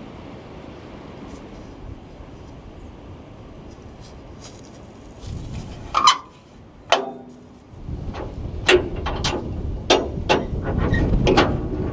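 Strong gusting wind, with a steady rush at first. It drops briefly after two sharp clicks about six seconds in, then comes back louder and buffeting, with a run of sharp knocks and rattles.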